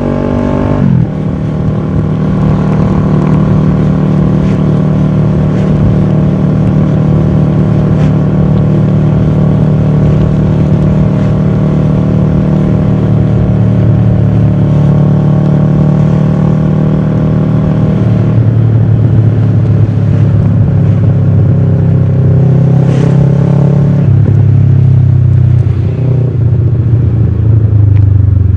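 Kawasaki ER-6f's 649 cc parallel-twin engine running through a full Akrapovic exhaust under way. The revs drop sharply about a second in, hold steady for a long stretch, then drop again to a lower note about two-thirds through.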